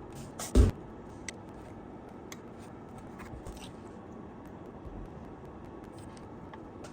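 Objects being handled on a workbench: one loud knock about half a second in, then scattered light clicks and taps.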